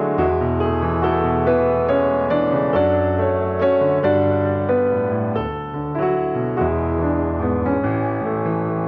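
Piano music: a melody of struck notes over low, held bass notes.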